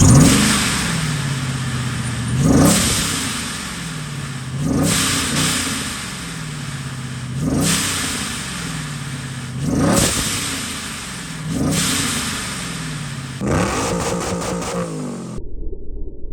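Supercharged LS V8 in a Shelby Cobra kit car blipped repeatedly, about seven times, roughly every two and a half seconds. At the top of each rev there is a rush of air as the ProCharger's blow-off valve vents the boost, then the engine note falls back. Near the end the sound cuts off abruptly to a muffled low rumble.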